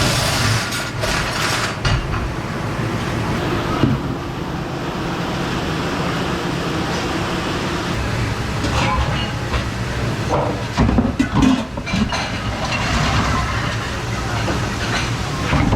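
Dish-pit noise in a commercial kitchen: a steady mechanical rumble and spray from the dish machine, with plates, cutlery and racks clattering and knocking at irregular moments, busiest near the middle.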